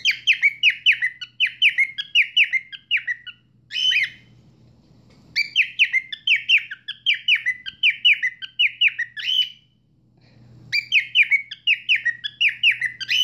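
A cockatiel doing one-note screaming: the same sharp, falling call repeated about three times a second, in three long bouts with short pauses between.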